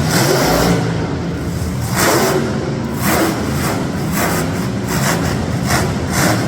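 Monster truck engine running loud, with repeated surges in noise about once a second.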